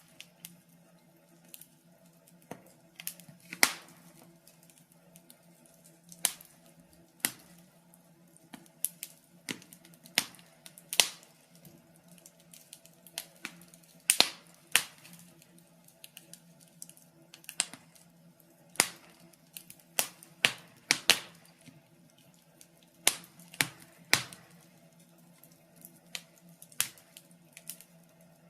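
Wood fire crackling in a fireplace: irregular sharp pops and snaps, about one a second and sometimes two in quick succession, over a faint steady low hum.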